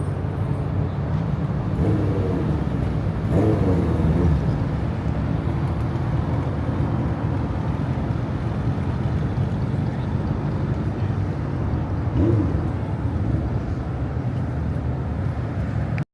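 Car engines running with a steady low rumble, swelling briefly a few times, about 2, 3.5 and 12 seconds in. The sound cuts off abruptly at the end.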